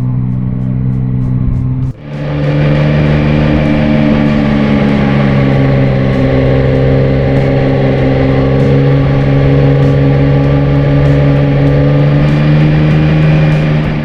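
Yamaha Tracer 9's three-cylinder engine pulling uphill under steady throttle. It drops off briefly about two seconds in, then picks up again and holds a steady note that slowly rises.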